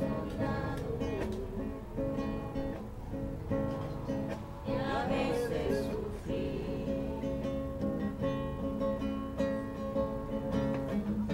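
Acoustic guitar strummed in a steady rhythm, playing music.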